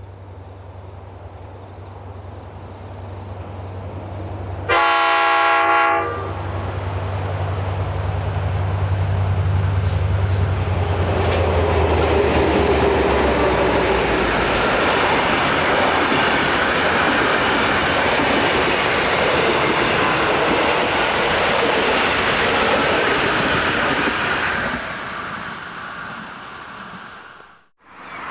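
Heritage diesel locomotives X31 and A66 (Victorian Railways X class leading a V/Line A class) approaching with a low engine drone and sounding one horn blast of about a second about five seconds in. The train then rolls past over the rail bridge with loud wheel and rail noise and clickety-clack that builds and fades away near the end.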